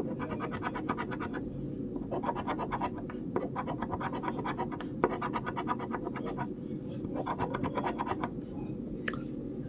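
Scratch-off lottery ticket being scraped, its coating rubbed off in several stretches of rapid scratching, each a second or two long, with short pauses between.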